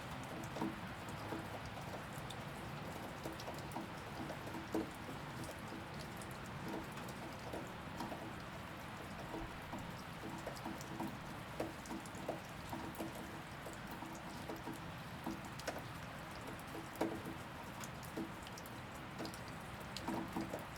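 Steady rain with many irregular, separate drops landing close by; a lot of them give a short, low pitched plink as they hit a hard surface.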